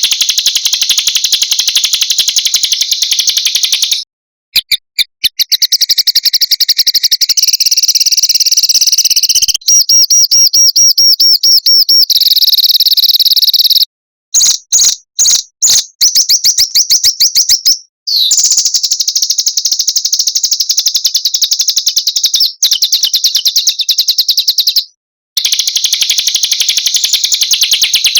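Small songbirds singing fast, high-pitched trills and rapid strings of sharp notes, with phrases cut off abruptly between segments. This is a masteran recording, played to cage birds so that they learn the song.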